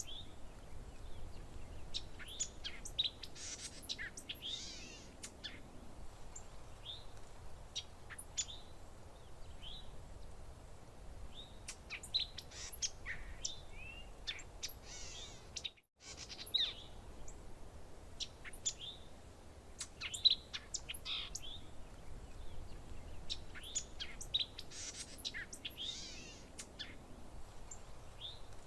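Several songbirds chirping and trilling in short, repeated calls over a faint steady low background noise. The sound cuts out completely for a moment about halfway through.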